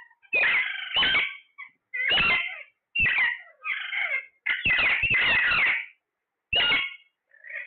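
Parrot calling: a run of short, loud screeching calls with swooping pitch, coming in bursts about a second apart with brief gaps between them.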